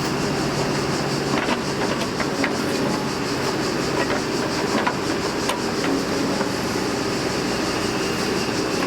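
Freight train rolling along the track: a steady rumble and hiss of wheels on rails, with scattered faint clicks.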